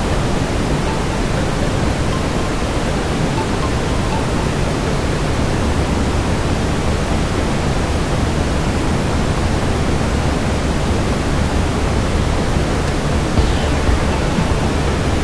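Steady brown noise, a deep, even hiss weighted to the low end, with a couple of faint fireplace pops near the end.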